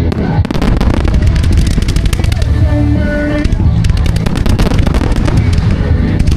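Fireworks going off in a dense, rapid run of crackling pops, over music with a heavy steady bass.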